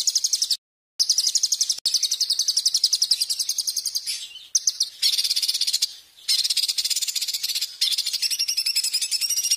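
Songbird singing a rapid, high-pitched trill of fast repeated chirps, in edited stretches that cut off abruptly and start again. This is a looped bird-song tutoring recording (masteran) meant for caged songbirds to copy.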